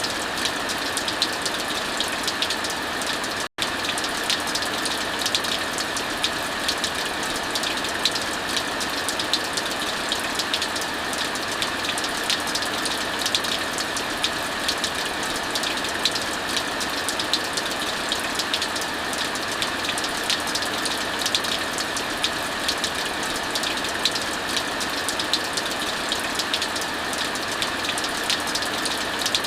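Heavy rain falling steadily, with fire crackling in frequent sharp pops and ticks. The sound cuts out for a split second about three and a half seconds in.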